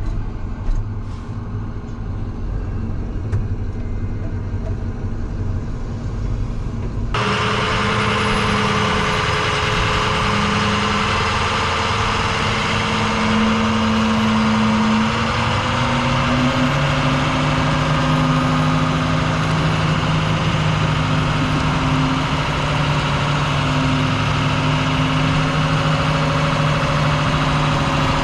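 International 4200 dump truck's VT365 V8 turbodiesel running at idle. About seven seconds in the sound turns suddenly louder and brighter, with steady whining tones that step in pitch a few times.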